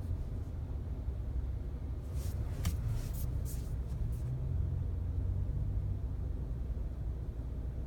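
Steady low road and engine rumble inside the cabin of a Volkswagen Passat B8 on the move. A handful of short, faint clicks or creaks come about two to four seconds in.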